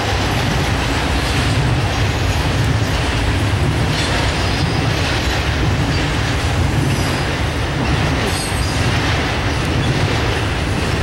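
Intermodal freight train of highway trailers on flatcars rolling past: a steady rumble of wheels on the rails.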